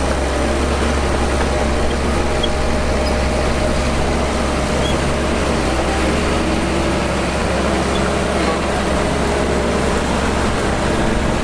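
Heavy diesel engine of earthmoving machinery running steadily, with a constant deep rumble.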